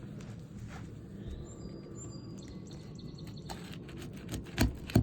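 Two sharp knocks near the end, a hand tool striking while overdriven nails are worked out of roof shingles. Before them a few faint bird chirps over a steady outdoor background hum.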